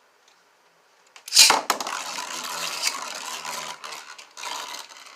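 Beyblades launched into a stadium: a sudden clatter about a second and a half in, then the spinning tops scraping and rattling against the stadium floor and each other for a few seconds, fading near the end.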